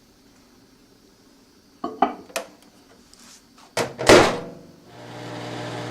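A few light knocks, then a loud clunk of the microwave oven door shutting about four seconds in. A second later the microwave oven starts running with a steady low hum.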